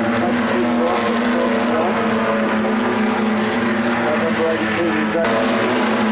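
Saloon race car engines running hard around the circuit, a steady droning blend of engine tones with wavering higher notes.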